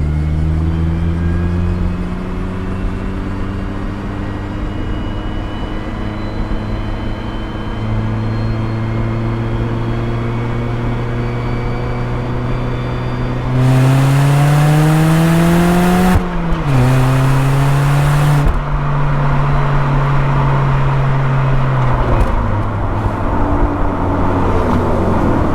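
Mazda ND Roadster's four-cylinder engine and exhaust under way, its pitch climbing slowly under light throttle. About halfway it gets louder and the pitch rises faster under acceleration, drops sharply at a gear change, holds steady, then falls away near the end as the car slows.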